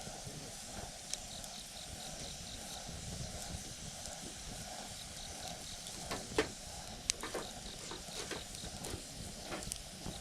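Campfire burning: a steady low rush of flame with scattered crackles of burning wood and a couple of sharper pops a little past the middle.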